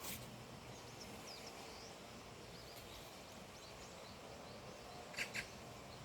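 Faint bird chirps scattered over a steady hiss of outdoor background noise, with two brief sharp sounds in quick succession about five seconds in.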